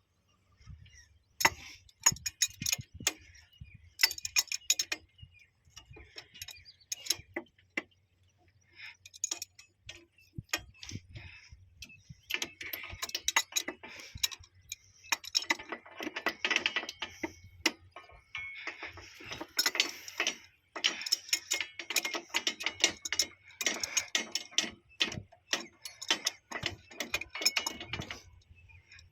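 Rapid metallic clicking and clinking of hand tools on steel fittings, with a few scattered clicks at first and dense runs of clicks through the second half.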